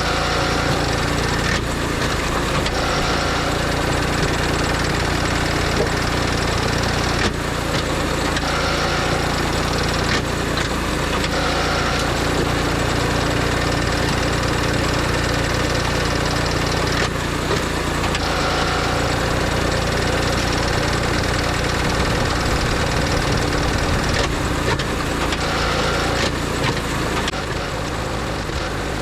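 An engine running steadily, with a few sharp knocks over it.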